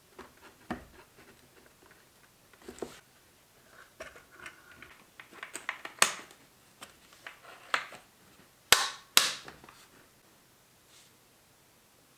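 Scattered clicks and knocks of tools and metal parts being handled, with two sharp knocks about half a second apart near the end.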